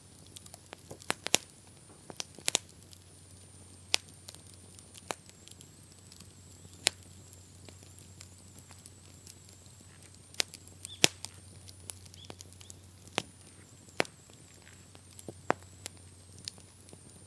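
Wood campfire crackling, with irregular sharp pops and snaps spaced anywhere from a fraction of a second to a few seconds apart.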